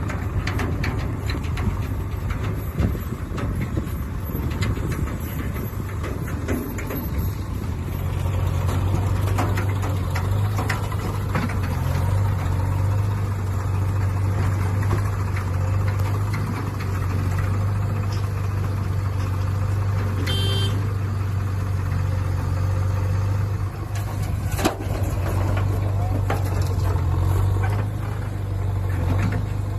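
Swaraj 744 FE tractor's diesel engine running with a steady low drone.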